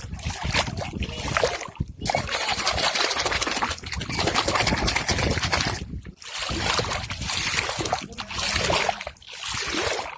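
Flowing water splashing and trickling, a steady rushing noise broken by brief sudden gaps about 2, 6 and 9 seconds in.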